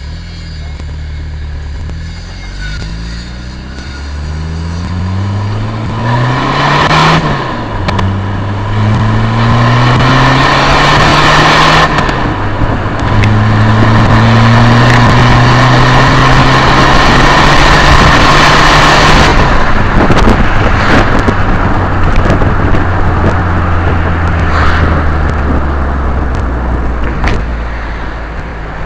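Volkswagen Golf TD turbodiesel engine accelerating through the gears: its pitch climbs, drops back at gear changes about seven and twelve seconds in, holds high, then eases off. A steady whistle and hiss ride over the engine, the odd sound the title lays on the intercooler.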